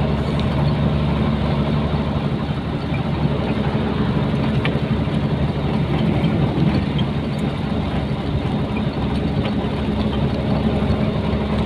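Nissan Diesel truck's diesel engine running steadily, heard from inside the cab together with road noise.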